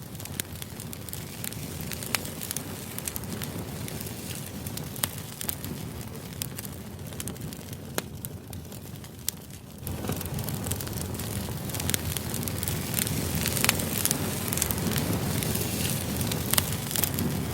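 Crackling fire ambience: a steady low rush dotted with frequent sharp pops and crackles. It grows louder about ten seconds in.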